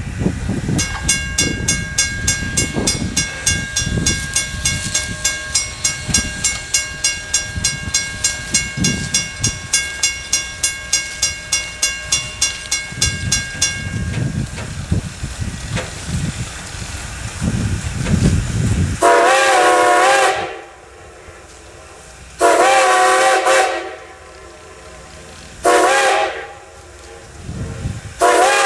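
A steam train rumbling past with a bell ringing steadily, about three strikes a second, for the first half. Then the steam locomotive's chime whistle blows long, long, short, long, the standard grade-crossing signal.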